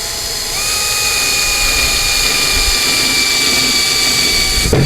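Electric screw gun driving a screw into a wooden 2x4: a steady motor whine that rises slightly in pitch about half a second in, with a brief break near the end before it runs on.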